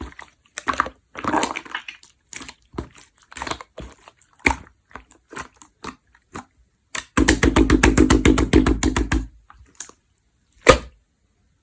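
Clear slime being squished and pressed by hand, making sticky clicks and pops. About seven seconds in comes a fast run of crackling pops lasting about two seconds, and one sharp pop near the end.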